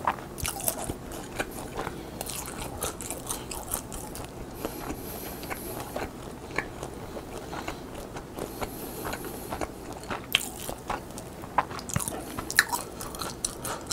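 Someone chewing crisp flavoured Korean roasted seaweed (gim), with repeated brittle crunching and crackling bites.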